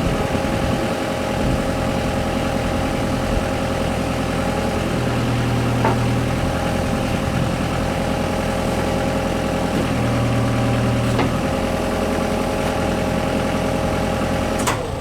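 Kubota KX121 mini excavator's diesel engine idling steadily, with its auto idle motor repaired and working again.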